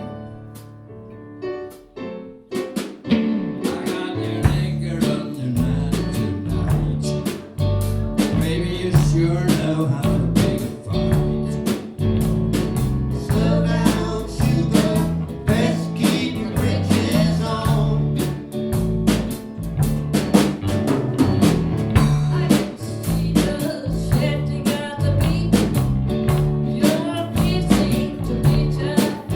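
A live band playing, with drum kit, bass and electric guitar. The first couple of seconds hold only a few sustained keyboard notes, then the full band comes in with a steady beat.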